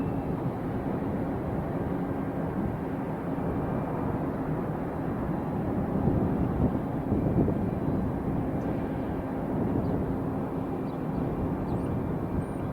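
Airliner jet engines running with a steady rumble, a faint steady whine riding on it.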